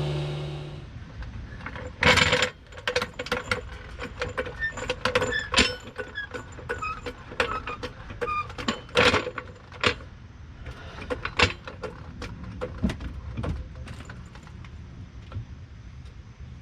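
Irregular metallic clinks, clanks and knocks of tools and steel hardware being handled, with a few short ringing tones and louder knocks about two seconds in and about nine seconds in. A motorised tool's steady hum winds down in the first second.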